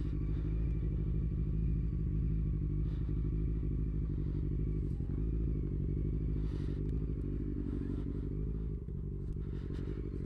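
Motorcycle engine running steadily at cruising speed while riding, heard muffled with most of its sound low down; the engine note eases slightly about nine seconds in.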